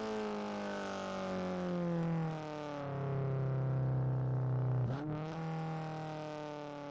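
Honda Civic EG6's four-cylinder VTEC engine running under varying throttle: the revs fall over the first two seconds, hold steady lower, then jump up sharply with a brief clatter about five seconds in and slowly ease down again.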